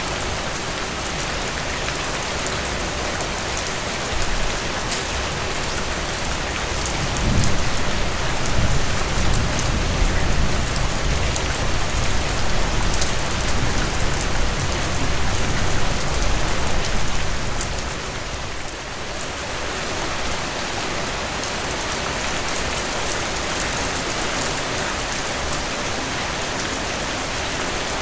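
Steady rainfall on surfaces, an even hiss of many drops. A deeper low rumble swells in about seven seconds in and fades away around eighteen seconds.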